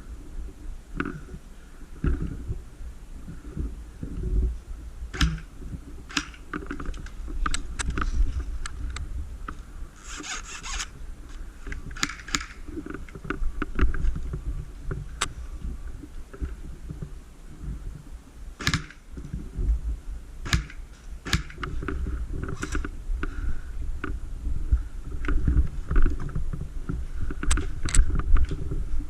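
Low rumble of wind and handling noise on a body-worn camera's microphone, with scattered sharp clicks and knocks throughout and a short hiss about ten seconds in.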